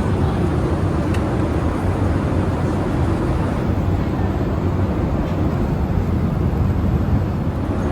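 Steady cabin rumble of a Boeing 787-8 Dreamliner in flight: even engine and airflow noise heard from inside the passenger cabin.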